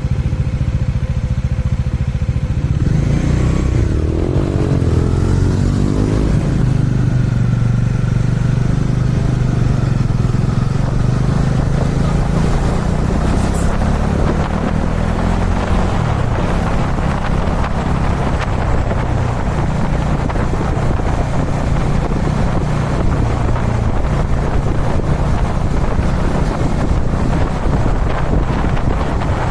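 Kawasaki Dominar 400's single-cylinder engine running on the move at expressway speed, its note shifting a few seconds in, with wind rush on the microphone growing in the second half.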